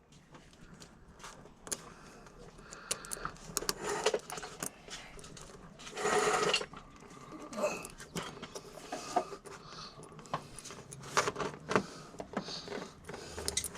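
Irregular small clicks and rattles of tools and metal hardware being handled during wiring work, with a louder rustling burst about six seconds in.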